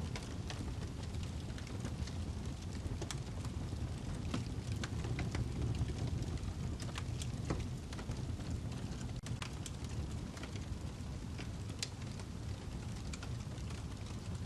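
Wood fire burning in a fireplace, crackling with irregular sharp snaps and pops over a steady low rumble of the flames.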